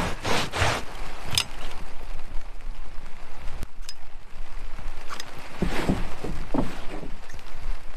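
Scraping and shuffling of work on a wet roof over a steady hiss of rain, with a few sharper knocks scattered through.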